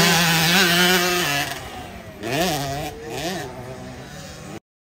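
Motocross bike engine running at a steady high rev, then two quick throttle blips that rise and fall in pitch. The audio cuts off suddenly near the end.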